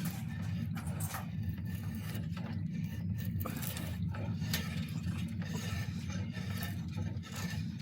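Hand tool scraping and rasping along a wooden bow limb, the oak worn down in short, irregular strokes to taper its thickness. A steady low hum runs underneath.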